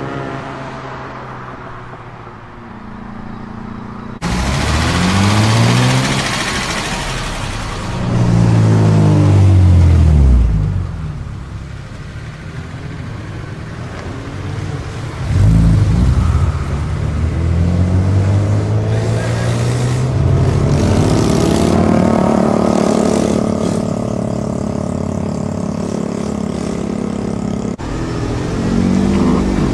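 Car engines accelerating hard as the cars pull away one after another, a black Mk4 Toyota Supra among them, each note climbing in pitch and dropping back. The sound cuts off abruptly twice, at about four seconds and near the end.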